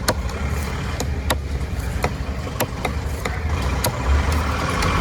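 Knife chopping through fish on a cutting block, about one sharp stroke every two-thirds of a second, over a steady low engine rumble.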